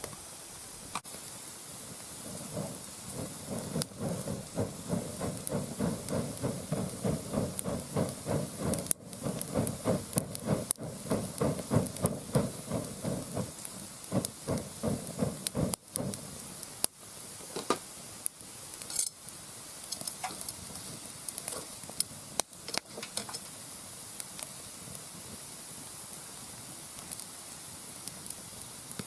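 Mixed hardwood burning in a round fire pit, with crackles and sharp pops. From about three to sixteen seconds in it gives a stretch of rapid, fluttering hissing and sputtering, then settles back to a low hiss with occasional pops.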